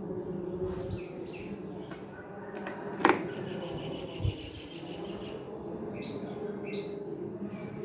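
Small birds chirping in short calls, twice, over a steady low hum, with a sharp click about three seconds in and a dull thump a second later.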